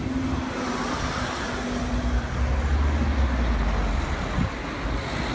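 Road traffic moving off over a level crossing once the barriers have risen: cars and a larger vehicle passing, with engine and tyre rumble that swells about two seconds in.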